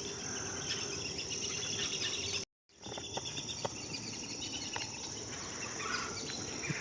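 Outdoor ambience of a steady high insect trill with scattered short bird chirps. The sound cuts out completely for a moment about two and a half seconds in, then resumes.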